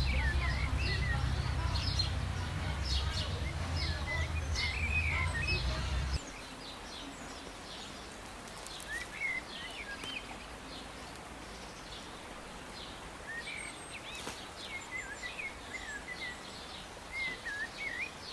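Small birds chirping repeatedly with short rising and falling calls over a steady outdoor hiss. A low rumble under the first six seconds cuts off suddenly.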